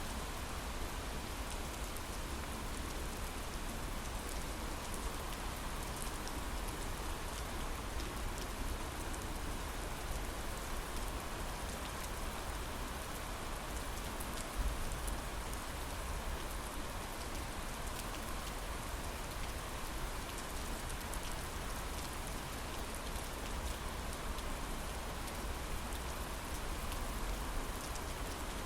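Steady heavy rain falling on a window pane, with scattered drops ticking against the glass.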